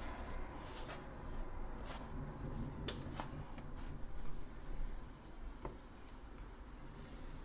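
Kitchen handling sounds: about half a dozen light clicks and taps spread over several seconds, over a low steady hum.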